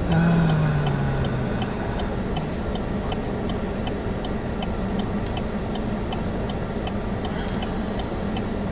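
Inside a Chevy Spark's cabin, the engine note falls from a rev over the first second and a half and settles to a steady run, while the indicator relay clicks evenly about twice a second.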